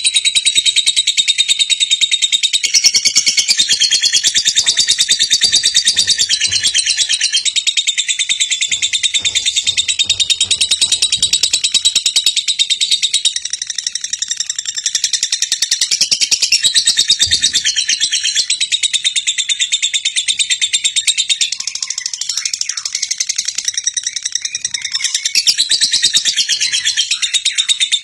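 Birds chirping in a dense, continuous, high-pitched chorus with rapid twittering that never breaks.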